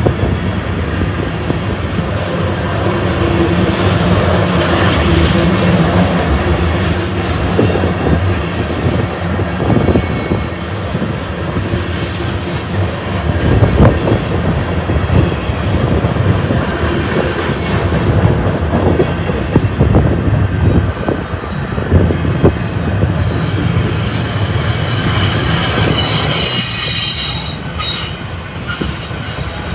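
Freight train rolling past close by, its cars rumbling and clacking over the rail, with high-pitched wheel squeal about six seconds in and again through the last several seconds.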